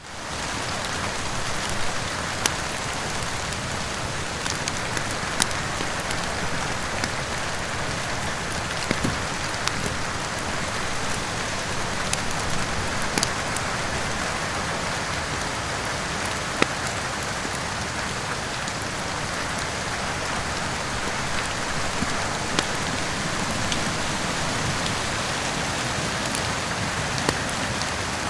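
Steady, heavy rain with occasional sharp pops of a crackling wood fire in a fireplace, fading in quickly at the start.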